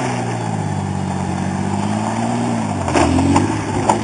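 1980s Ford Thunderbird's engine revving while driven hard off-road, its pitch rising and falling, with a few sharp knocks near the end.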